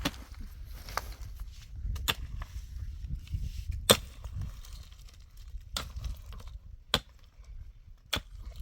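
A series of sharp knocks or strikes at irregular intervals, roughly one a second, over a low rumble.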